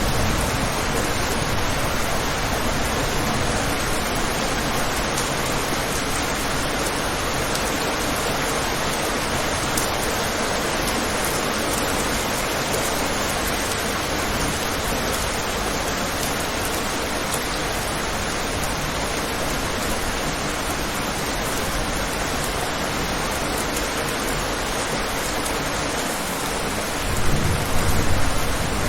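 Steady rain falling in an even hiss. A deep roll of thunder dies away at the start and rumbles up again near the end.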